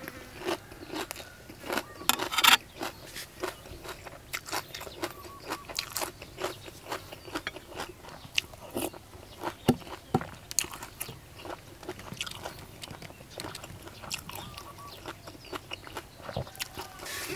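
A person chewing and crunching mouthfuls of crunchy green papaya salad and boiled beef tripe, with many short wet clicks and crunches in an irregular run.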